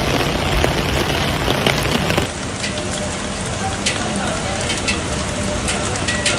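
Heavy rain, a dense steady hiss. About two seconds in it changes abruptly to a slightly quieter stretch of rain with many small patters and crackles.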